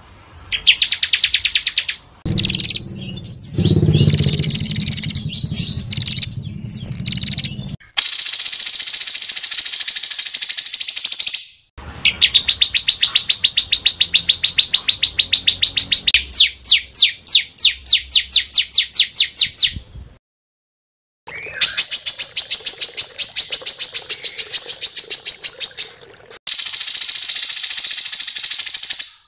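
Small songbirds singing dense, rapid trills and fast repeated chirps, the harsh 'tembakan' phrases used for training songbirds. It comes in short spliced takes with abrupt cuts and a silent break about two-thirds of the way through, and a low hum lies under one early passage.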